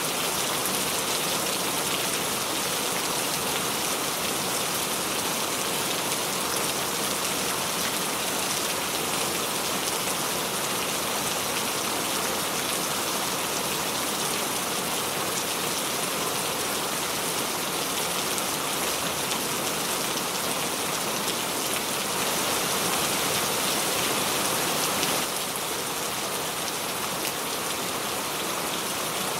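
Steady rain falling on a surface, an even hiss of many drops, dropping slightly in loudness about 25 seconds in.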